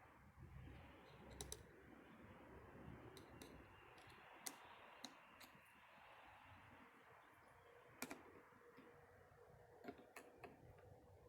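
Near silence with a faint hiss and scattered light clicks, about ten in all, of small distributor parts being handled.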